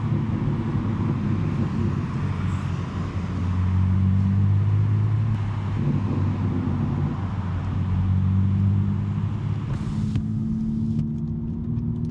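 2023 BMW M3's twin-turbo straight-six, with a non-resonated J-pipe exhaust, droning at moderate revs while the car cruises, its note wavering a little and climbing slightly near the end. Tyre and road hiss drops away suddenly about ten seconds in.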